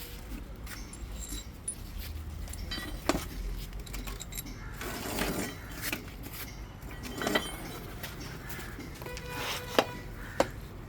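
Scattered metal clinks and knocks, some ringing briefly, from bolts and hand tools being handled while a bumper is fitted to a tractor; the sharpest come in a quick pair near the end.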